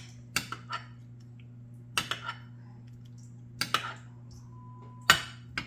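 Metal baking pan and utensils clinking and knocking in short clusters of sharp strikes. A short electronic beep sounds about four and a half seconds in, over a steady low hum.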